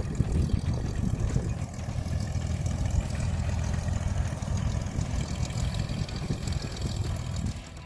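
Small training airplane's piston engine and propeller running as a steady, rough rumble, which fades shortly before the end.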